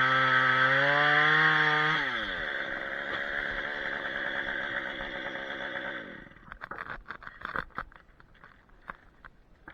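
Chainsaw held at full throttle, then dropping sharply in revs about two seconds in and running slower until it stops about six seconds in. Faint scattered clicks and rustling follow.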